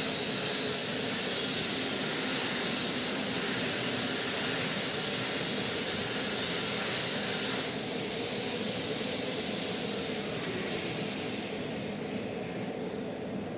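Manual metal lathe running with a steady hum and a loud hiss. The hiss cuts off suddenly about eight seconds in, leaving the machine running more quietly.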